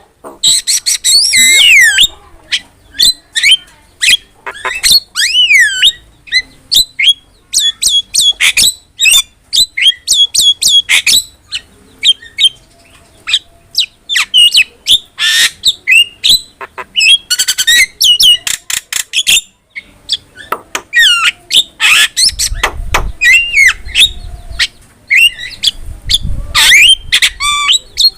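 Javan myna (jalak kebo) singing hard: a fast, varied run of whistles that slide up and down, harsh squawks and rapid chattering notes, in short phrases with brief gaps. Two low rumbles come in the second half.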